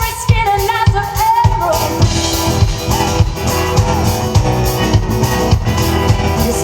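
Band music with a steady drum beat and guitar: a held sung note fades out about a second and a half in, and the instruments play on without voice.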